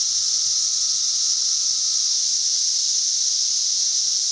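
Dense chorus of periodical cicadas, a steady high-pitched buzzing hiss from a swarm in full song.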